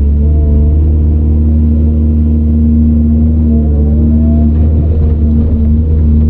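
Caterpillar 395 excavator's diesel engine running steadily under work, with a faint whine that rises in pitch around the middle.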